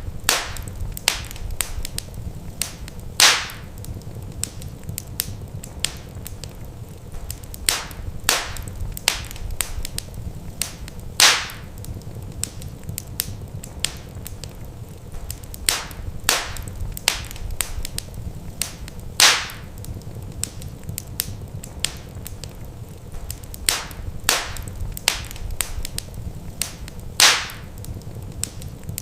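Wood fire crackling in a fireplace: sharp pops and snaps of burning logs over a steady low rumble. The loudest pops repeat on an even cycle about every eight seconds, as in a looped recording.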